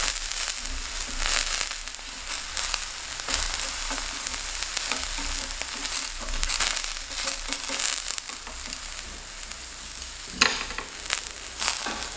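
Zucchini slices sizzling in a little oil on a hot griddle pan: a steady hiss with scattered crackles, and a sharp knock near the end.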